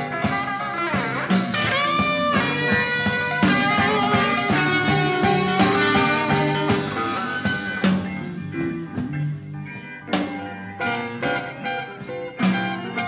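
Blues-rock band playing an instrumental passage: lead guitar playing bent notes over bass and drums.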